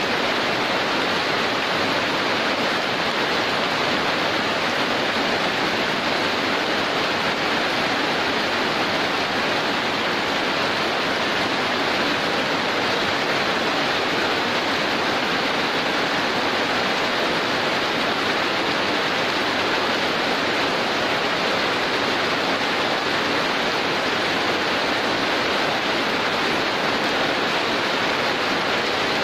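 Heavy rain falling in a steady downpour: a dense, even hiss of rain that does not change.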